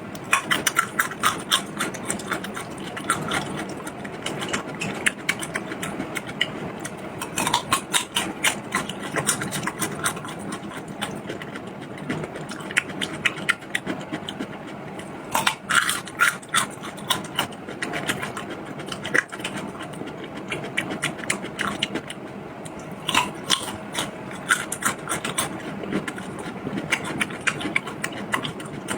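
Close-miked eating sounds: steady wet chewing with rapid clicks and crunches, growing louder in several bursts.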